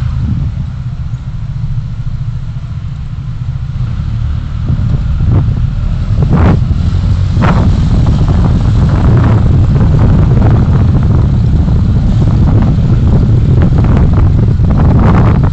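Road and engine rumble of a moving car heard through a dashcam microphone, getting louder about five seconds in, with scattered knocks and rattles.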